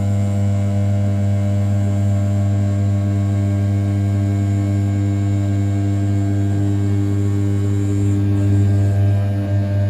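500 W brushless spindle of an RZ420 desktop CNC router turning at 6000 rpm while its end mill rough-cuts the outer profile of an A7075 aluminium block: a steady, unbroken low hum with a clear higher tone above it.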